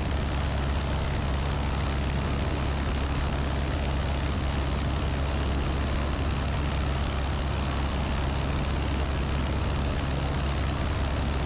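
The Piper Archer PA-28-180's four-cylinder Lycoming engine running steadily in flight, a constant drone with a deep low hum and no change in pitch. It is an old engine with many hours on it.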